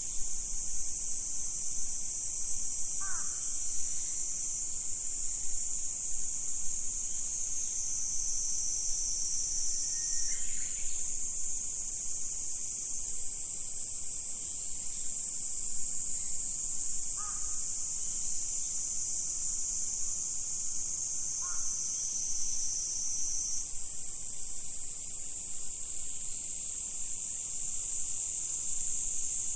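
A steady, dense, high-pitched chorus of insects shrilling without a break, with a bird giving four brief, falling calls spread through it.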